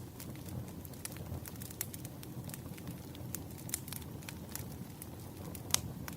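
Campfire burning: a steady low rumble of flames with irregular sharp crackles and pops of burning wood, one louder pop near the end.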